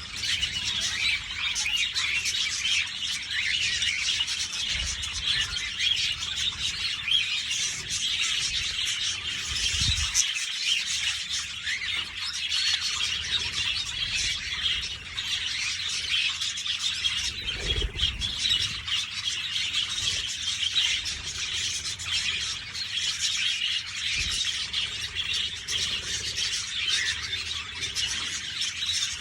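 A flock of budgies chattering and chirping continuously, a dense overlapping stream of short calls with no break.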